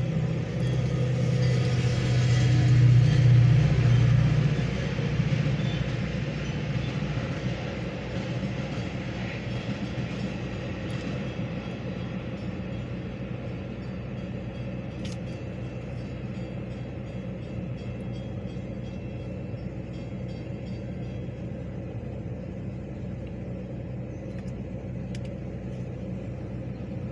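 Metra diesel commuter train passing over a grade crossing. It is loudest a few seconds in with a deep engine hum, then fades to a steady lower rumble as it moves away.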